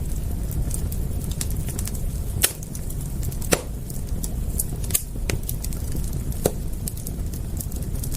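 Wood fire crackling: irregular sharp pops and snaps, a few louder ones about two and a half, three and a half, five and six and a half seconds in, over a steady low rumble of the burning fire.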